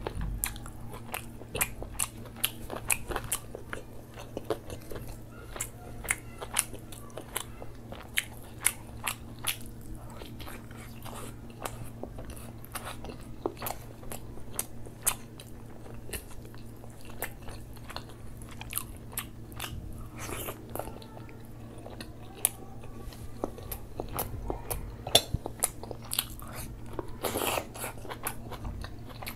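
Eating sounds of a man eating rice and butter chicken curry by hand: a steady run of chewing, biting and crunching with many short, sharp wet mouth clicks, along with his fingers mixing rice and curry on the plate.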